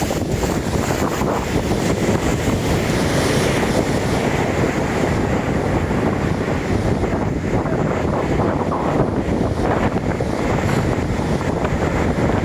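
Storm wind buffeting the microphone in a steady loud rumble, with sea surf behind it.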